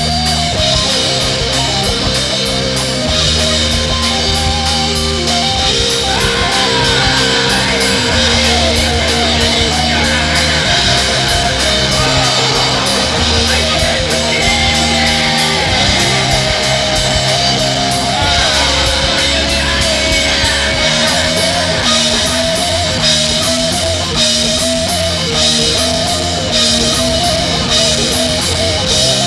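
Loud rock music: distorted electric guitar over a drum kit keeping a steady beat.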